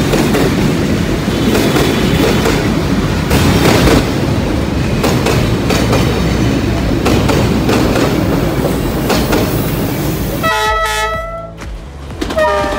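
A train rolling past close by, its wheels rumbling and clattering over the track joints. About ten and a half seconds in the rumble drops away and a train horn sounds in several notes, starting again just before the end.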